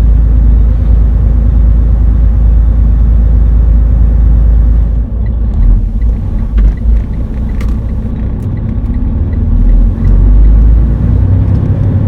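Truck under way: a steady, loud, low engine and road rumble. It eases slightly about five seconds in, with faint regular ticks through the second half.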